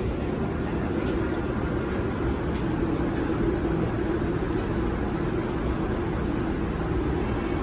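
New York City subway car (R142-type) running between stations, heard from inside: a steady rumble of wheels on rail with a faint high whine and a few light clicks.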